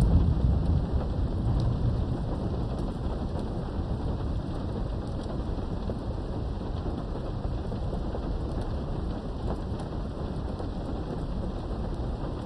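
Steady rain heard through a window, with a low roll of thunder that swells right at the start and fades over the first two seconds.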